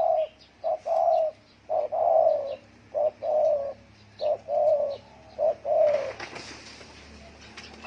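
Spotted dove giving its rapid repeated 'gù' coos, each a short note run into a longer one, about one a second, stopping about six seconds in.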